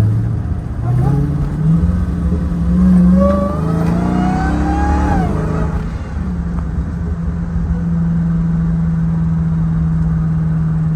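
Car engine pulling hard, its note climbing in stages with a rising whine over it for the first five seconds or so. It then drops back about six seconds in and settles into a steady cruise.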